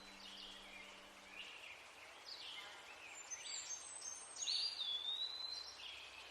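Several birds calling faintly with short chirps and whistles, one longer gliding whistled note about four and a half seconds in. A faint low steady hum stops about a second and a half in.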